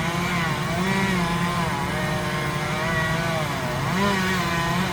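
Two-stroke chainsaw running steadily, its engine pitch rising and falling as it revs and loads while cutting.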